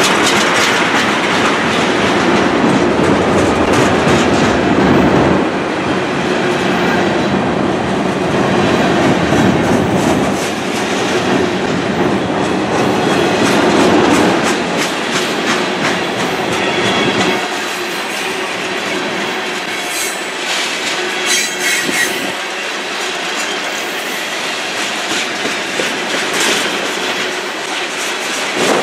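Freight train tank cars and covered hoppers rolling past close by: a steady rumble of steel wheels on rail, with repeated clicking as the wheels cross rail joints. About two-thirds of the way through, the wheels give a brief high squeal.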